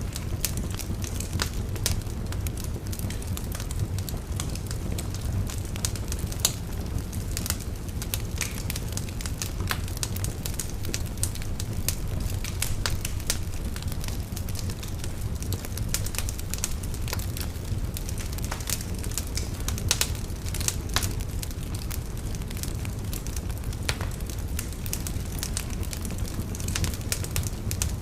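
Wood fire burning in a fireplace, crackling and popping at irregular moments over a steady low rumble of flames.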